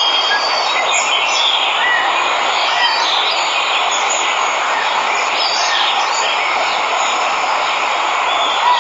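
Waterfall rushing steadily, with birds chirping over it now and then.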